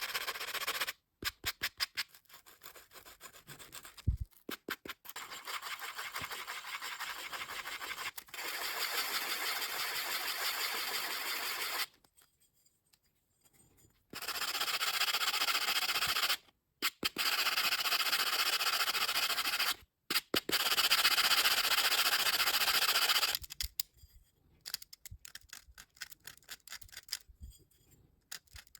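Abrasive rubbing on a part of an old hand drill, quick back-and-forth strokes in several long spells with short pauses between, then scattered short strokes near the end.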